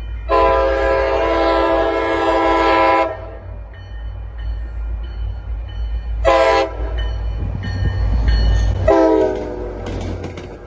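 Passenger train's multi-chime air horn sounding a long blast, then a short one and a third brief one near the end, over the low rumble of the train.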